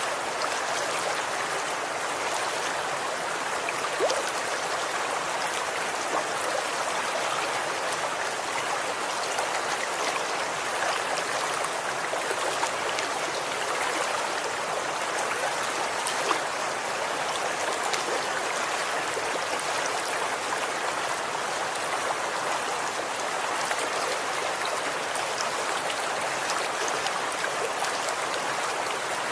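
Running water in a stream, a steady even rush with small splashes and trickles scattered through it.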